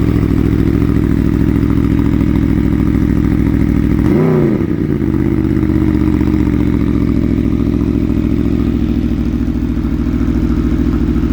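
Aprilia Tuono V4 1100's 65-degree V4 engine idling steadily, with one quick blip of the throttle about four seconds in that rises and falls back to idle.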